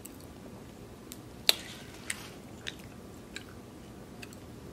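A person chewing a mouthful of mac and cheese close to the microphone, with several sharp, wet mouth clicks, the loudest about a second and a half in.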